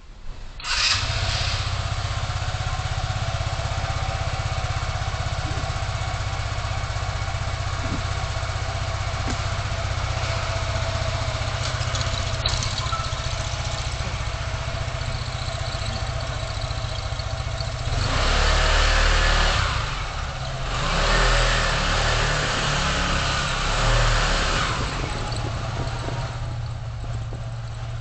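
A car driving in city traffic, heard from a dashcam: a steady engine and road hum that comes in abruptly just under a second in. From about two-thirds of the way through, three louder rushes of passing vehicles follow one another.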